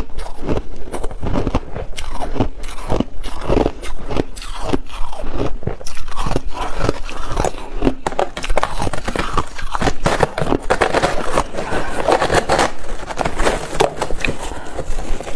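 Ice being bitten and chewed close to the microphone: steady, dense crunching with several crunches a second throughout.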